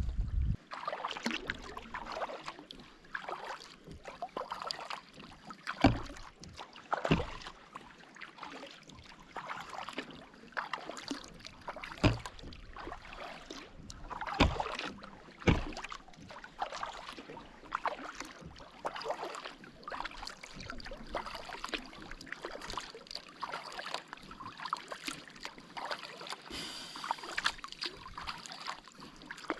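Kayak being paddled on a loch: water swishing and dripping off the paddle blades, with irregular splashes and light knocks of the paddle against the hull over a steady wash of water along the boat.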